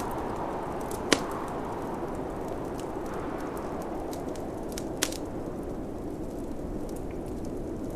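Wood fire crackling, with two sharp pops, about a second in and about five seconds in, over a steady low rush of snowstorm wind.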